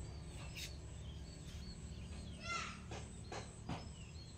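Small birds chirping in short high notes, with one longer call sliding downward about two and a half seconds in, over a steady low background rumble.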